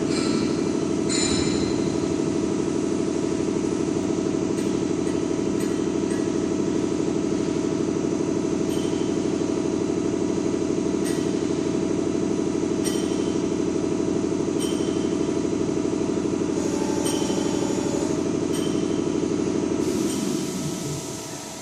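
Electro-hydraulic servo press brake running: its hydraulic pump and motor give a steady loud hum, with sharp clicks every second or two. Near the end the hum falls in pitch and dies down as the pump slows.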